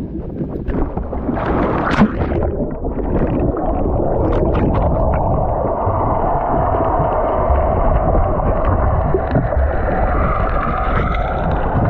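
Water splashing around an action camera as it goes into the sea, then a steady, muffled underwater rumble and gurgle while snorkeling.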